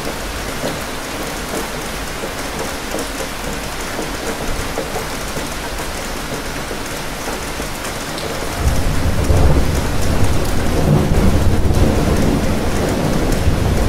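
Steady rain falling. About two-thirds of the way through, a deep rumble of thunder rolls in and keeps going.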